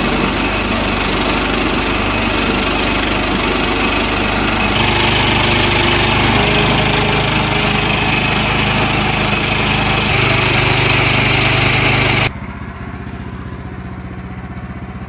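Small petrol engine running steadily at high revs, loud with a strong hiss. About twelve seconds in it cuts abruptly to a quieter, evenly throbbing engine at lower speed.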